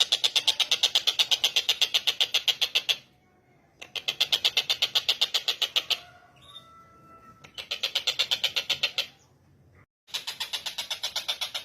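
Tengkek buto kingfisher giving its fast rattling call, a rapid string of sharp notes at about a dozen a second. The call comes in four bouts of two to three seconds with short breaks between them. Faint thin whistles are heard in the break just after six seconds.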